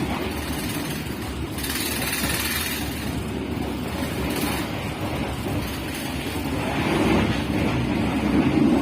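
Steady rumble and rattle of a passenger train running on the rails, heard from inside the carriage, with a brief rush of hiss about two seconds in.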